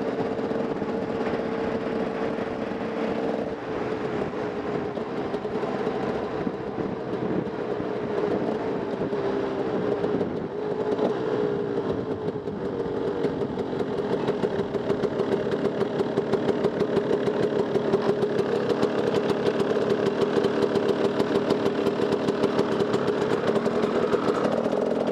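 Off-road motorcycle engine running with a steady, pulsing note that changes little in pitch, a little louder in the second half.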